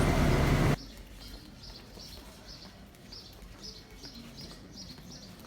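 A loud rushing noise with a low hum cuts off abruptly under a second in, leaving a small bird chirping over and over, short high chirps two or three a second.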